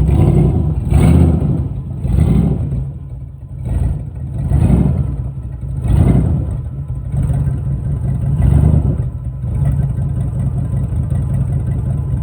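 Turbocharged 6-liter V8 in a Chevy C10 burnout truck being revved in about six throttle blips over the first eight or nine seconds, then settling into a steady idle.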